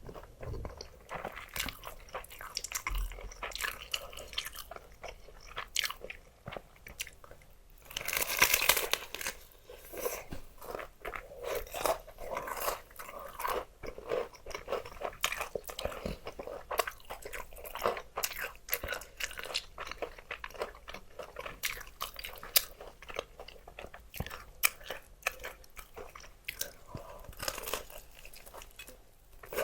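Close-miked eating of crispy fried chicken: irregular bites and crunching of the fried coating, then chewing. One louder, longer burst comes about eight seconds in.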